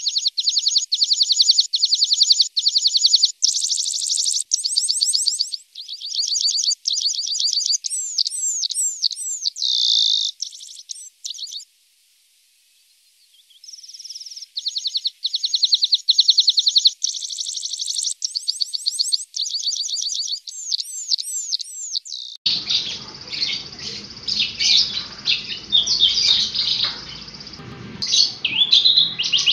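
Javan bush lark (branjangan) singing: rapid-fire trills of quickly repeated notes mixed with downward-slurred whistles, stopping for about two seconds midway, then resuming. Later the recording changes to a noisier one with more varied, broken chirping over a low hum.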